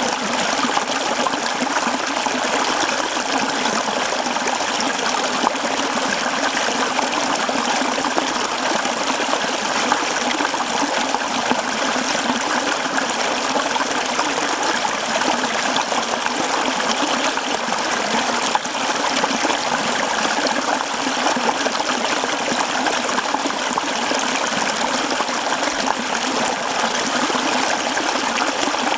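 Mountain stream running over rocks: a steady, close rush and trickle of flowing water.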